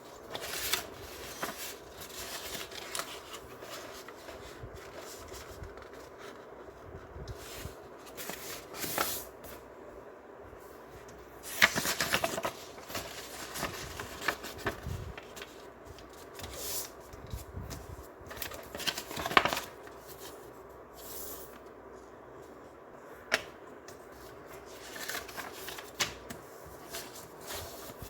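A sheet of paper being handled, folded and creased by hand: scattered rustles and sharp crinkles, the loudest about twelve and nineteen seconds in, over a steady faint background hum.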